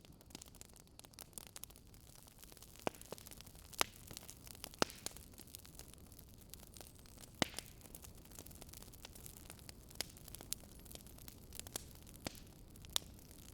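Wood fire crackling: a soft steady hiss with irregular sharp pops and snaps, a few louder ones spread through.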